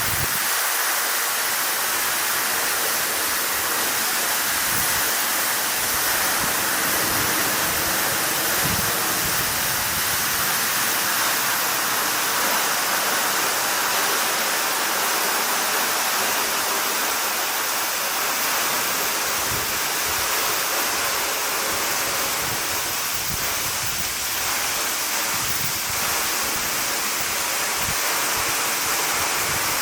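A tall vertical waterfall pouring steadily into its plunge pool: an even, unbroken rush of falling water.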